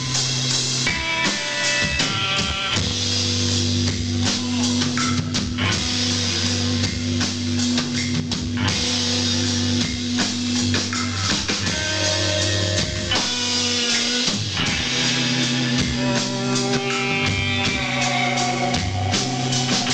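Live rock band playing an instrumental passage: electric guitars and bass over a drum kit.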